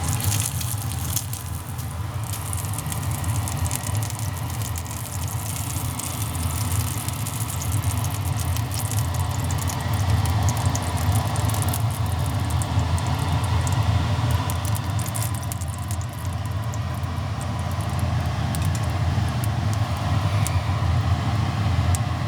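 Pork belly sizzling over a small wood fire, with many scattered crackles and pops, over a steady low rumble that is the loudest part.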